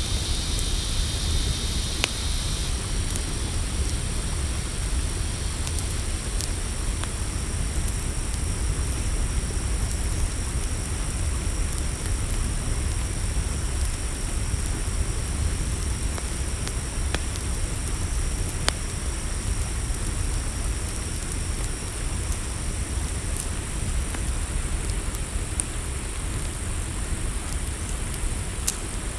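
Campfire crackling with scattered sharp pops over a steady low rumble, under a continuous high chorus of crickets.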